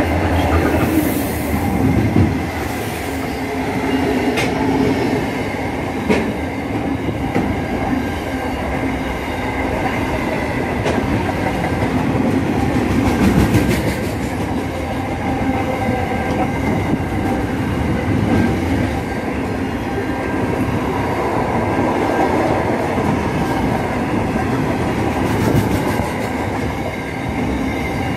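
Freight train passing close by: a diesel locomotive goes past at the start, then flat wagons loaded with containers roll by with a steady wheel-on-rail rumble and occasional clicks.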